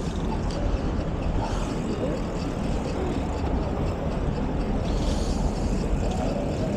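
Steady wind and road noise from a moving bicycle ride, a low rumble on the microphone with street traffic mixed in.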